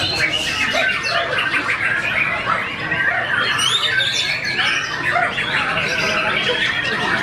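White-rumped shama (murai batu) singing a continuous, varied song of whistled phrases that glide rapidly up and down.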